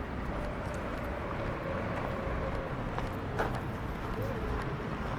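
City street ambience: a steady rumble of traffic with a faint murmur of voices, and a couple of short clicks about three seconds in.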